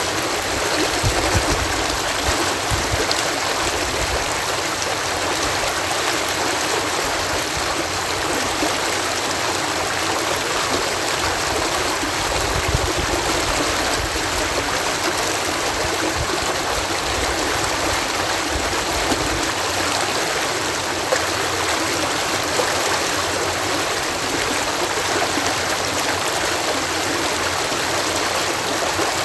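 Water pouring over a canal lock in a steady, full rush, with a low rumble that comes and goes.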